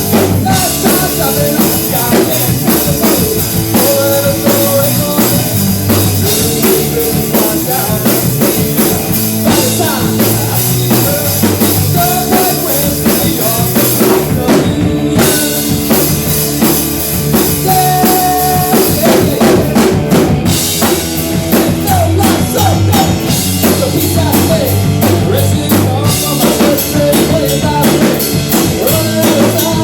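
Live band music with a drum kit keeping a steady beat under pitched instruments, loud and continuous.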